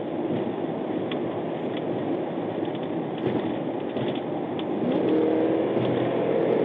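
Steady vehicle engine and road noise. About five seconds in, the engine note rises and then holds.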